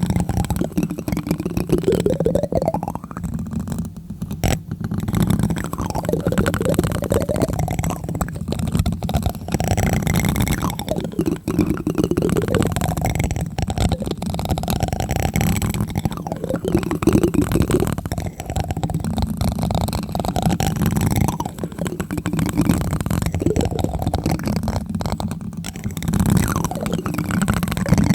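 Plastic spoon tapping and rubbing directly on a microphone: a dense run of rapid, boomy taps mixed with sweeping scrapes.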